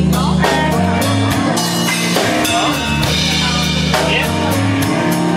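Live blues-rock band playing an instrumental passage between sung lines: a drum kit keeping a steady beat, with bass and electric guitar.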